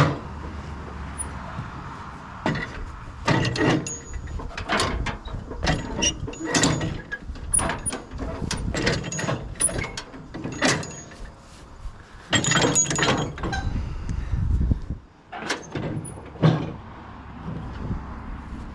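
Irregular metal clanks, knocks and scrapes from the finish mower's hitch being pushed into place on the tractor's lift arms, with a low rumble at times.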